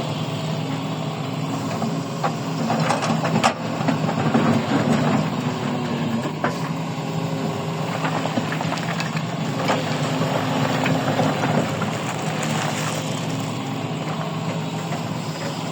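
Heavy mining machine's engine running steadily at a constant pitch, with scattered knocks and clatter, a few seconds apart.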